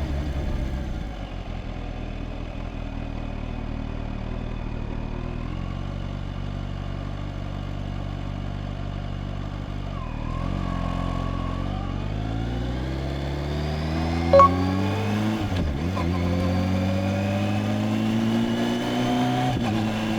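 Kawasaki Z H2's supercharged inline-four engine under way. It runs steady and slowly drops in pitch for about ten seconds, then pulls up through the gears with rising pitch, shifting about fifteen seconds in and again near the end. A short beep sounds about fourteen seconds in.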